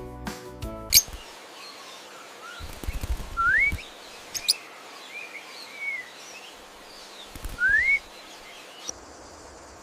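Birds chirping: scattered short calls and two clear rising call notes over a steady outdoor hiss, after a bit of music ends about a second in. Two brief low rumbles come in the middle.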